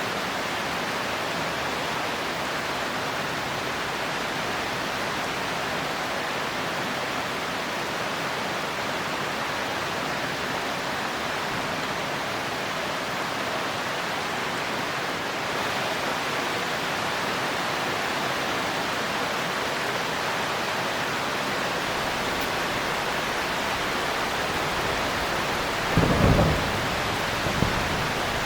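Steady heavy rain with an even hiss, broken near the end by a short, sharp clap of thunder and a smaller second crack about a second later.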